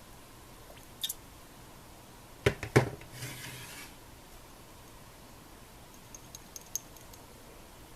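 Tableware and cooking utensils clattering: a light click, then a few sharp knocks and a short scrape about halfway through, and a few small metallic ticks near the end.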